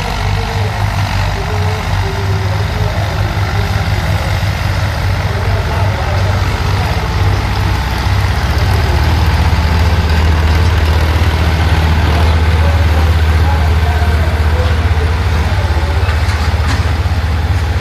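Eicher tractor's diesel engine running hard under load, its deep firing beat growing louder and steadier about halfway through.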